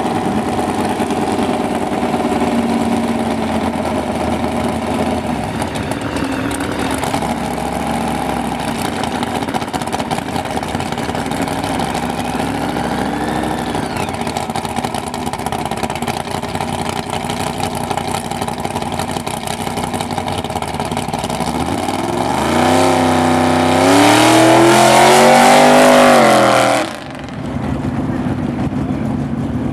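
Hot rod car engines running steadily. About 22 seconds in, one engine accelerates hard, its pitch climbing for about four seconds, then the sound cuts off suddenly.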